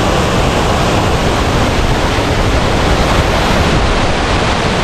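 Waterfall heard from close by: loud, steady rushing of heavy falling water.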